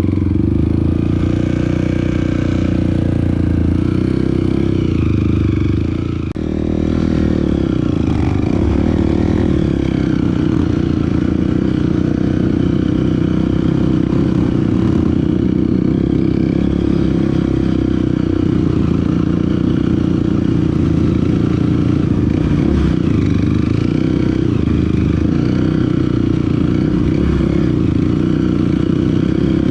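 Dirt bike engine running continuously while riding a trail, the revs rising and falling with the throttle, with a short let-off about six seconds in.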